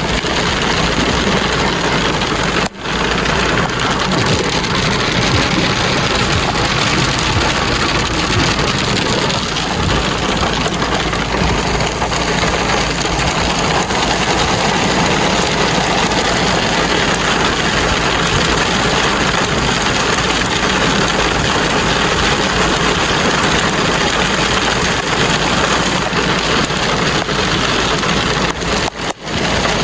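Steady, heavy rain noise with a low engine rumble beneath it, as from rain pelting a vehicle with its engine idling. It drops out briefly about three seconds in and again near the end.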